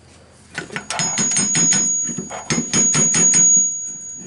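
Rapid light hammer taps on a car starter motor's solenoid, about five or six a second with a brief pause midway, with a high metallic ring over them. The tapping is meant to free a plunger the owners think is seized with rust.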